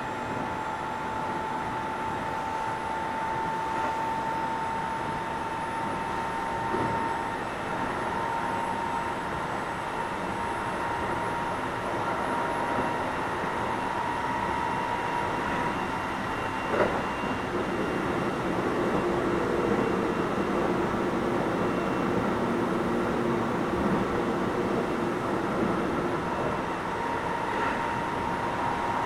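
Keio 7000 series electric train running: steady rumble of wheels on rail with a high whine that gives way to a lower hum about halfway, and a single sharp knock just before the change.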